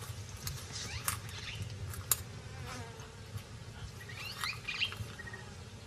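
Outdoor wildlife ambience: a steady insect buzz, scattered sharp clicks, and a few short chirps about four seconds in.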